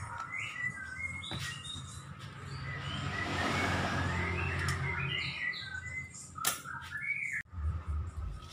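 Small birds chirping in short, repeated notes over a steady low hum, with a couple of sharp knocks.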